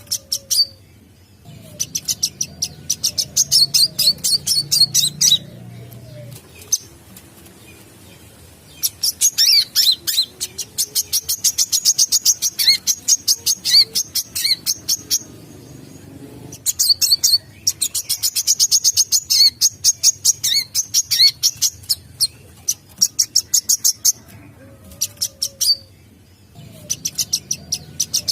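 Brown-throated sunbird (kolibri kelapa) singing its lure song: long bouts of rapid, high-pitched chittering notes, broken by pauses of a second or two.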